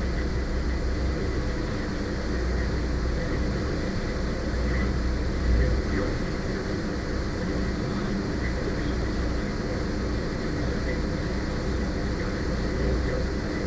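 Ferry's diesel engines running steadily under way, a low even drone with water and hull noise, and one brief low thump about five and a half seconds in.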